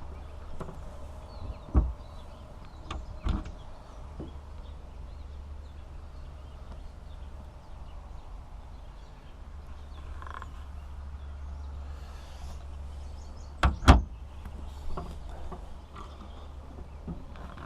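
A few knocks and thumps over a steady low rumble, the loudest a double thump about fourteen seconds in.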